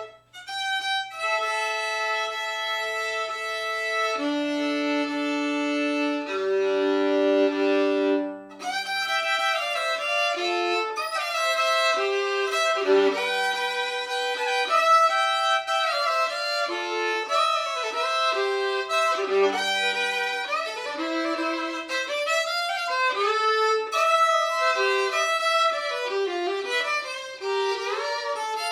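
Solo fiddle, a Hopf-stamped trade violin with a double bass bar, played with the bow. It opens with slow held notes, some sounded two at a time as double stops, then moves into a quicker tune with slides between notes about eight seconds in.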